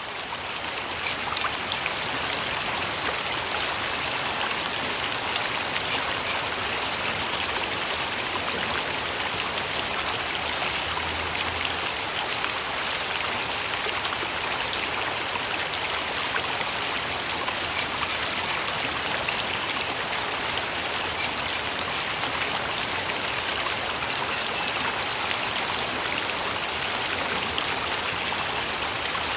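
Fades in at the start to a steady rush of flowing water with a fine splashing patter, like a stream or small waterfall.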